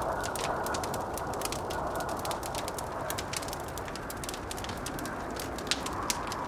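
Wood fire crackling with many quick sharp pops, a couple of them louder near the end, over a steady howling blizzard wind that swells and fades.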